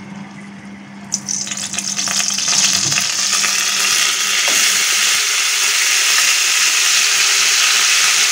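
Wet onion paste going into hot oil with whole spices in a kadai, sizzling. The sizzle starts suddenly about a second in and builds within two seconds to a steady, loud hiss as the paste's moisture boils off in the oil.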